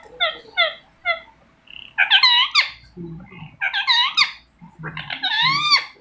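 Indian ringneck parrot calling: about four quick chirps in the first second, then three longer calls, each under a second, that rise and fall in pitch.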